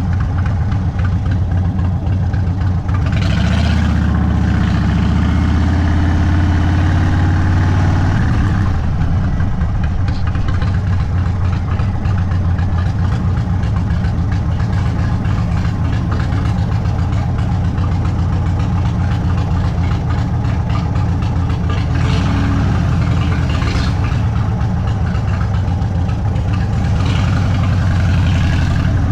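Indian Sport Chief's 116 Thunderstroke V-twin running through a Sawicki Speed aftermarket exhaust at low speed. The revs rise and hold between about three and eight seconds in, and pick up briefly once more a little past two-thirds of the way through.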